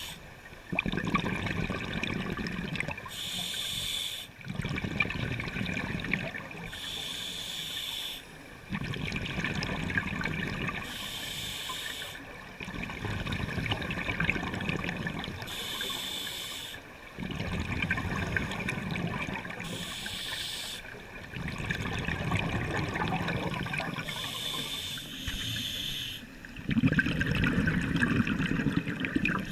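Scuba diver breathing underwater through a regulator: a short hiss on each inhalation, then a longer rush of exhaled bubbles, about six breaths, one roughly every four seconds.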